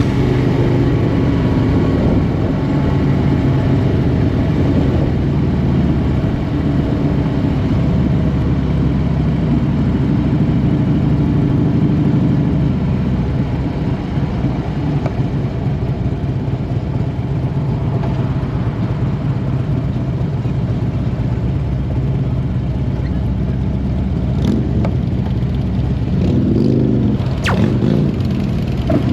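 Motorcycle engine running steadily under way, with a continuous low rumble of engine and wind. A brief sharp sound comes near the end.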